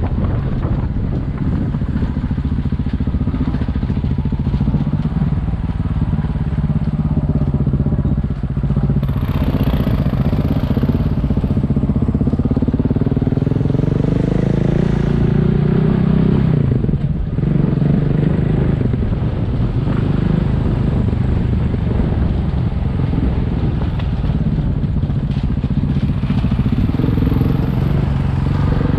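Single-cylinder dual-sport motorcycle engine running under way, its note climbing with throttle and dropping back at gear changes, notably about 8 seconds and 17 seconds in.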